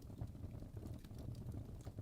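Campfire burning: a low steady rumble of flames with small, scattered crackles and pops.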